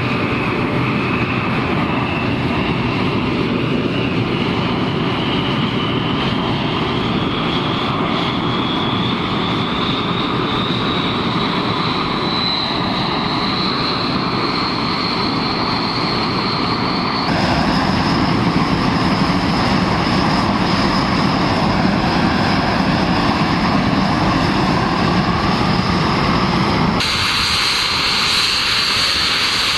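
F-86 Sabre's turbojet engine running on the ground: a high whine climbs steadily in pitch over a steady rush for the first half as the engine speeds up. It then holds as a louder, higher steady whine, with the sound changing abruptly twice.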